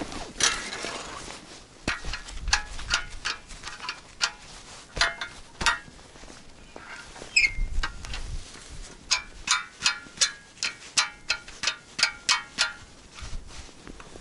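Footsteps crunching in snow on river ice, irregular at first and then a steady pace of about two steps a second in the second half, with low gusts of wind buffeting the microphone.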